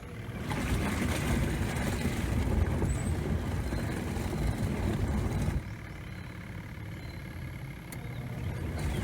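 Portable camp washing machine running on its normal cycle, the motor humming and the water churning in the tub. It drops to a quieter level about five and a half seconds in, then picks up again near the end.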